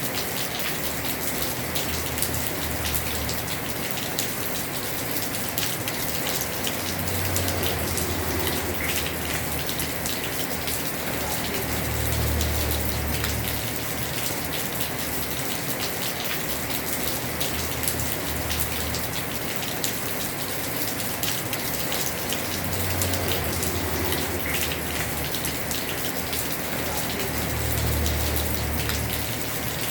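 Heavy rain falling on a house roof: a steady hiss with many individual drops ticking, and a low rumble that swells and fades every few seconds.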